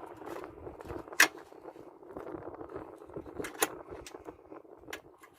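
Hand tools and small metal parts being handled while a switch unit is taken apart: scattered clicks and clinks, the sharpest about a second in and another about three and a half seconds in, over a steady background noise.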